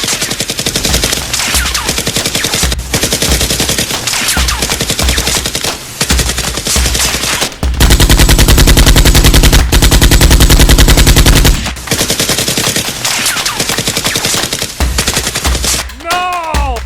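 Rapid automatic gunfire sound effects in repeated bursts, with one long, very loud burst of about four seconds in the middle. Near the end, a short falling tone.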